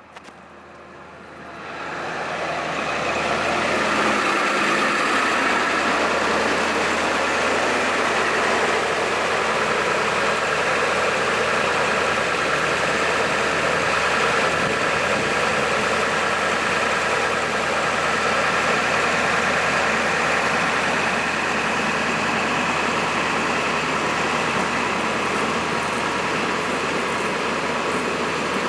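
Truck engine running the PTO-driven hydraulic pump while the Elliott boom is operated from the pedestal controls. It rises to a higher speed over the first two seconds or so and then runs steady.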